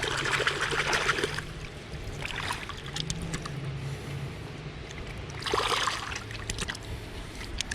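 River water splashing and sloshing in short bursts as a hooked common carp is lowered back into the river, over a steady low hum.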